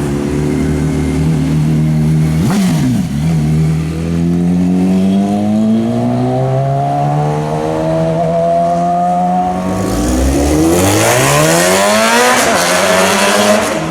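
Sport motorcycle engine running loud and accelerating: a quick dip and recovery in revs a few seconds in, a slow climb in pitch, then near the end a fast climb in revs as it comes close past.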